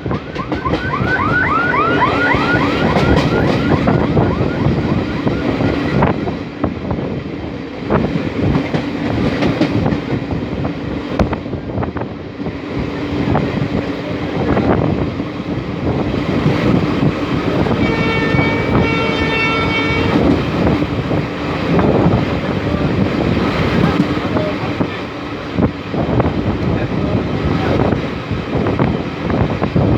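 Indian passenger or goods train crossing a railway bridge: a steady rumble with the clatter of wheels over rail joints, and a wavering high squeal in the first few seconds. About two-thirds of the way through, the train horn sounds for about two seconds.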